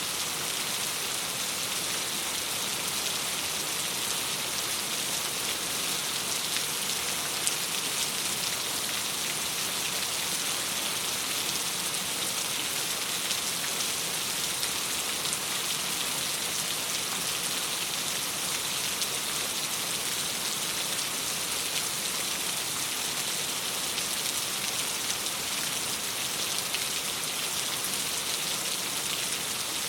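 Steady rain pattering on window glass, an even hiss of dense drops with a few sharper ticks here and there.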